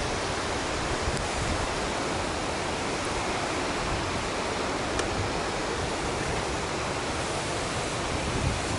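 Cauldron Snout, the River Tees cascading down its rocky falls, rushing steadily with an even, unbroken sound of water.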